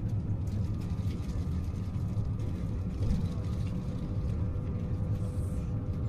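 Interior of a passenger train running at speed: a steady low rumble from the wheels and track, with a faint steady hum over it.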